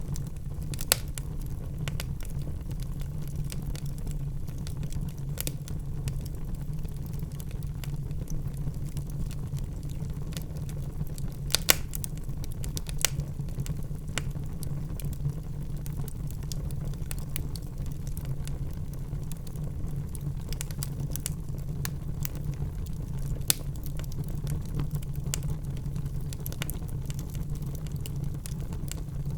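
Log fire crackling in a fireplace: a steady low rumble of flames with frequent small snaps and a few louder pops, the loudest about twelve seconds in.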